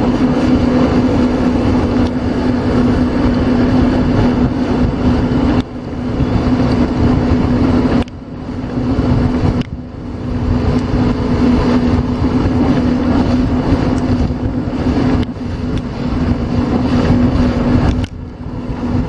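Small watercraft engine running steadily at speed, with rushing wind and water noise. Its sound drops away briefly several times and then picks up again.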